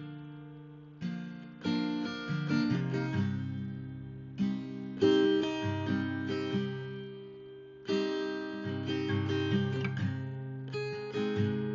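Acoustic guitar music: chords plucked and strummed one after another, each ringing out and fading before the next.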